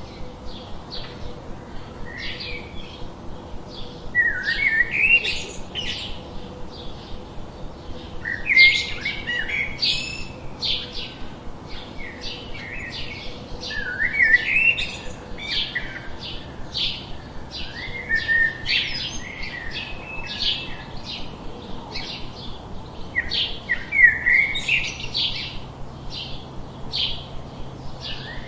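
Songbirds chirping: a steady run of short, rapid chirps, broken every four to six seconds by a longer phrase that glides up and down.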